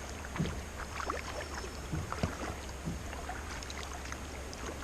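Kayak paddle strokes dipping and splashing in an irregular rhythm about once a second, over a steady rush of flowing water from rapids ahead.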